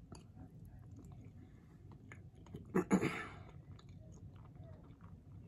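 Close-up chewing sounds of a person eating, with soft wet mouth clicks, and a brief hum from the eater about three seconds in.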